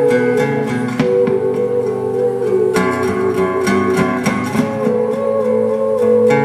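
Live music: an instrumental passage of a song, with guitar strummed and plucked over held notes.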